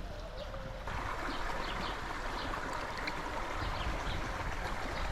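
River water rushing steadily, the noise stepping up suddenly about a second in.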